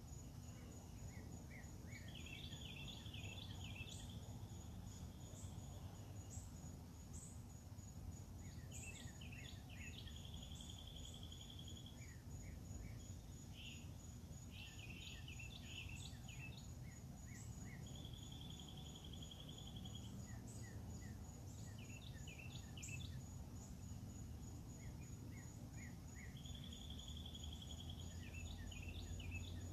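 Outdoor morning ambience: a songbird repeating a phrase of quick chirps and a held trill about every eight seconds, over the steady high trill of insects and a faint low rumble.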